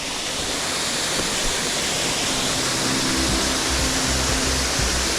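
Waterfall on a mountain brook giving a steady rush of falling water. Soft background music with low sustained notes comes in about two seconds in.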